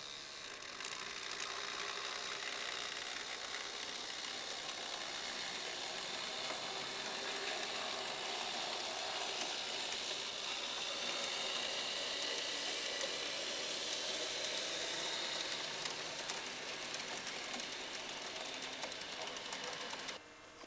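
Märklin Z-scale (mini-club) model train running: a steady high-pitched motor whir with fine clicking of wheels on the track, building up within the first second and cutting off suddenly near the end.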